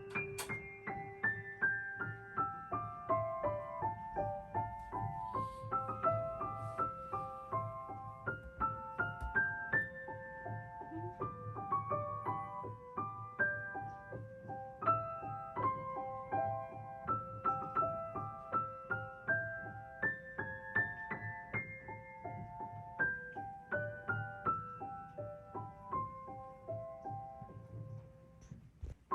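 Background piano music: a steady flow of short, separate piano notes carrying a melody.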